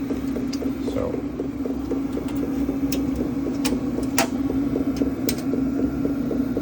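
Diesel air heater running: a steady blower hum with an even ticking of about four a second from its dosing fuel pump, which is packed in foam. A few sharp clicks come in between.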